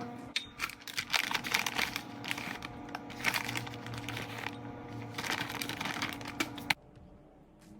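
Plastic packaging crinkling and crackling as it is handled, over background music; the crinkling stops about seven seconds in.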